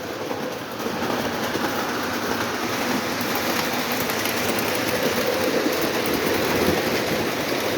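Several Lionel O27 model trains running around the layout at once: a steady rumble and clatter of wheels on the track, with their motors running.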